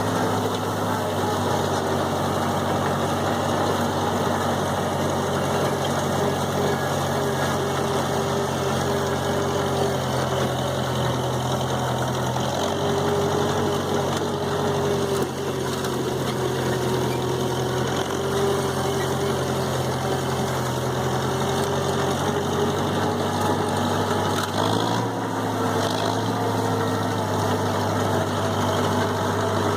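Massey Ferguson 165 gas tractor engine running steadily while pulling a hay tedder. The engine note shifts slightly about twelve seconds in and again near twenty-five seconds.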